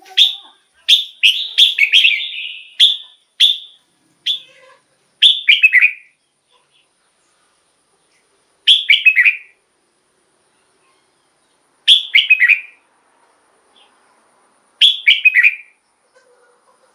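Red-whiskered bulbul singing. A quick run of short bright phrases fills the first six seconds, then three more phrases come about three seconds apart.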